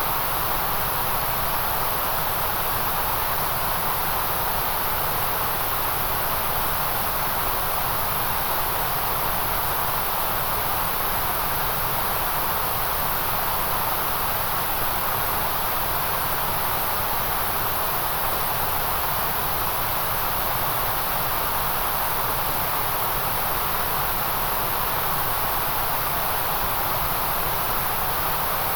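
Steady white noise: an even, unchanging hiss with a bright high sizzle and a fuller band in the middle.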